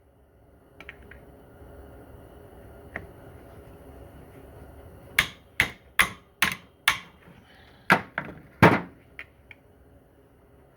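Sharp metal-on-metal hammer blows: a quick run of five, two or three a second, then two harder strikes with a few light taps around them. They are most likely blows on a wrench to break loose a stuck bolt on a Corvair Powerglide transmission; the bolt has not moved.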